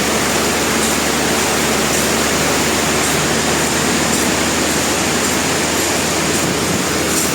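Industrial sawmill machinery running with a loud, steady, even noise that does not let up.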